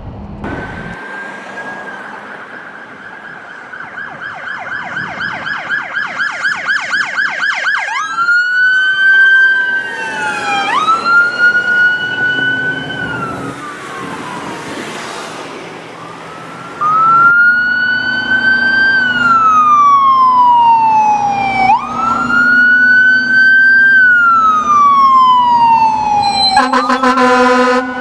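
Emergency vehicle electronic sirens. A rapid warbling yelp runs for the first several seconds, then a wail rises and falls slowly every few seconds, getting suddenly louder about two-thirds of the way through. A brief rapid pulsing horn blast sounds near the end.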